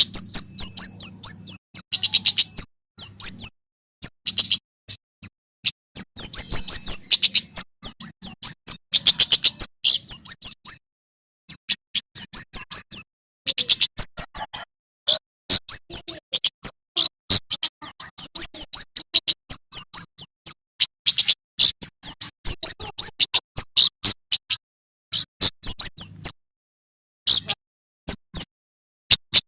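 Male prenjak keres (kemade) singing: loud, rapid runs of sharp, high chirping notes, each run lasting a second or two and broken by brief pauses.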